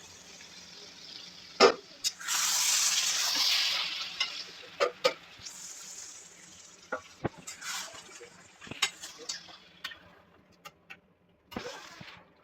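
Kitchen sounds: a loud rush of water lasting about two seconds, then dying away, with sharp clinks and knocks of metal utensils and cookware before and after.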